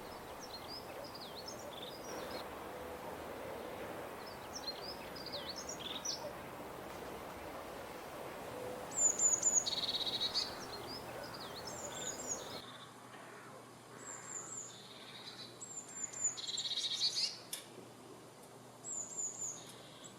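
Black-billed magpies calling in short bursts of high, sliding chirps, with louder bursts of notes about ten seconds in and again near seventeen seconds, over a steady background hiss.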